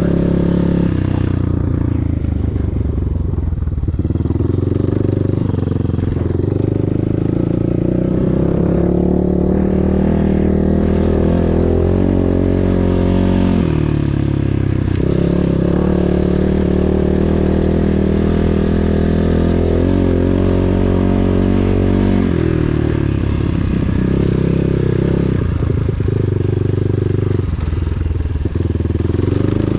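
Enduro motorcycle engine running under way, its note rising and falling repeatedly as the throttle is opened and closed.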